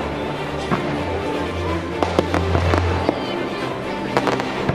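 Aerial fireworks bursting, several sharp bangs and crackles with a cluster near the end, over music with sustained low notes.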